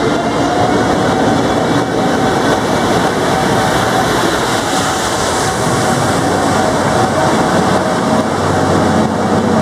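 Hokutosei sleeper train pulling out of the station, a steady, even rumble of wheels on the rails as the cars roll past.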